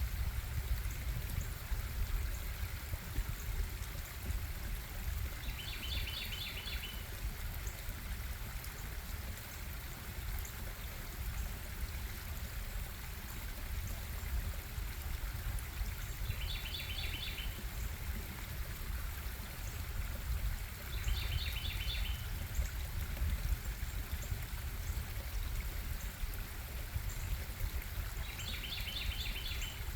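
Stream water running steadily over rocks, with a low rumble under the flow. A short, high, chirping trill cuts through four times.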